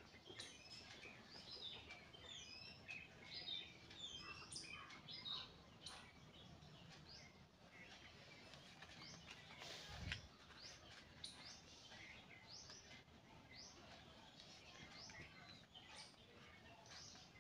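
Faint chirping of small birds: many short high chirps, thickest in the first few seconds and thinning out after, with a single thump about ten seconds in.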